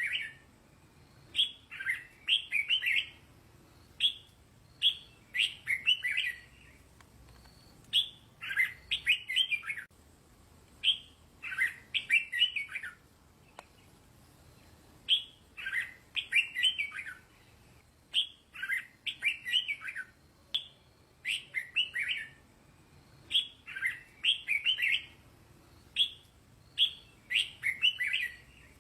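Red-whiskered bulbul singing: short, bright phrases of a few quick notes, repeated every two to three seconds.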